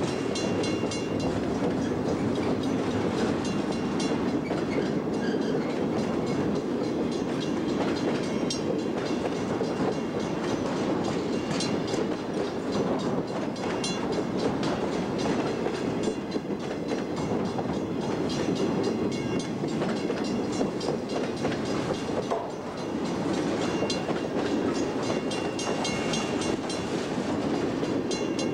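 Freight train of double-stack container cars rolling past close by: a steady rumble of steel wheels on the rails. Over it a level-crossing warning bell rings with rapid, even strokes.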